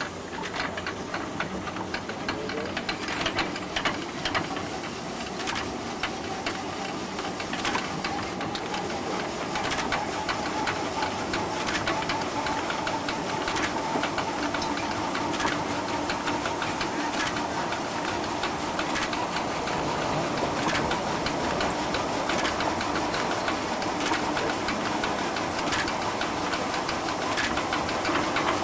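Steam-powered sawmill running: a steady, rapid mechanical clatter with a tone that slowly rises in pitch over the first half, then holds.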